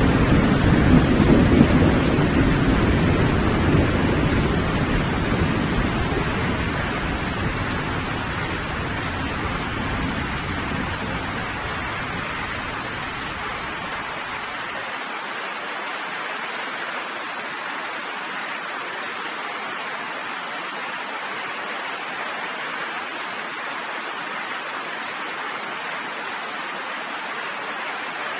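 Steady rain falling, with a long low rumble of thunder that fades out over the first half, leaving only the even hiss of the rain.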